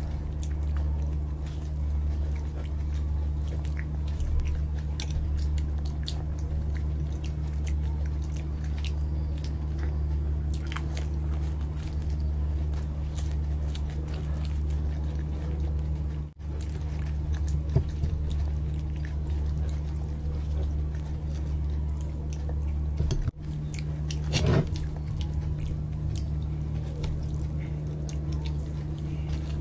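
Eating sounds of dahi golgappa being bitten and chewed: wet mouth noises with small crunches and clicks, over a steady low hum. The sound drops out briefly twice.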